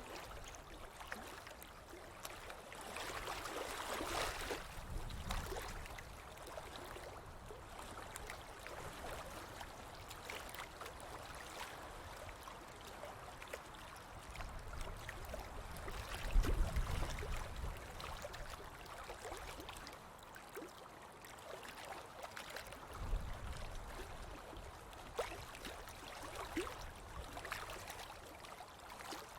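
Running water, like a stream, a steady rushing with small crackles throughout, and low rumbles twice in the second half.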